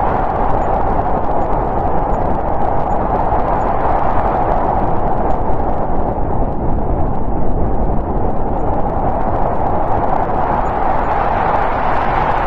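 Snowstorm wind blowing steadily, its noise strongest in a mid-pitched band that slowly swells and eases over several seconds.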